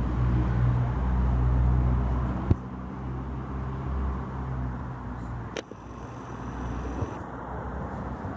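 A motor vehicle's engine idling with a steady low hum. About two and a half seconds in, a sharp click comes and the hum drops to a quieter rumble. Another sharp click comes about halfway through.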